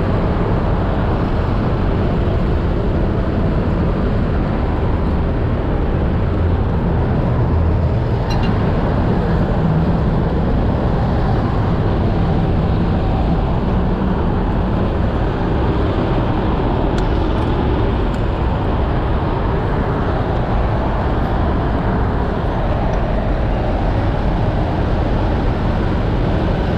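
Vehicle engines and road traffic running steadily: a low, even noise with no breaks.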